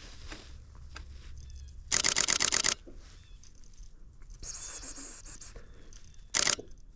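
Nikon D500 DSLR shutter firing a rapid burst of about eight frames, roughly ten a second, about two seconds in, then a second brief burst near the end.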